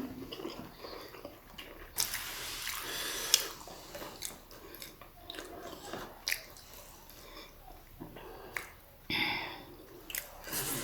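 Wet chewing and smacking mouth sounds of people eating momo dumplings, with scattered small clicks and two short hissy bursts.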